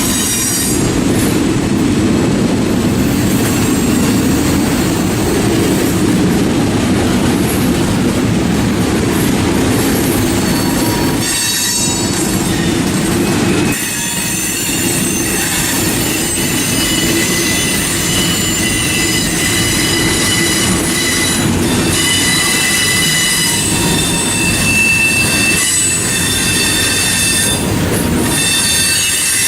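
Freight cars of a manifest train rolling past on a curve: a steady low rumble of wheels on rail, with high-pitched wheel-flange squeal that grows more frequent in the second half.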